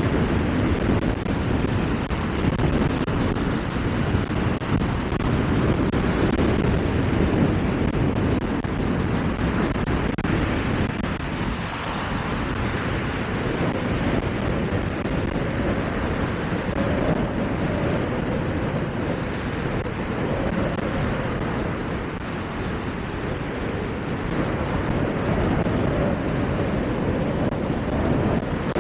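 Steady wind buffeting the microphone over a continuous low rumble, with a faint steady hum in the second half.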